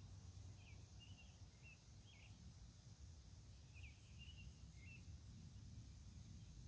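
Faint bird chirping: two short runs of a few quick notes, about three seconds apart, over a low steady rumble.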